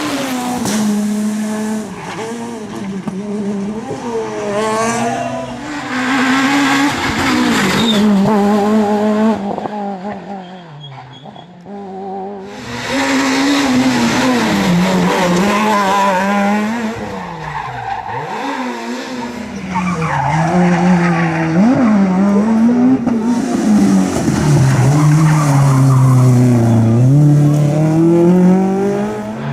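Rally car engines revving hard and changing gear as the cars drive a stage, the pitch climbing and dropping again and again, with tyres skidding. The sound drops away briefly twice, between cars.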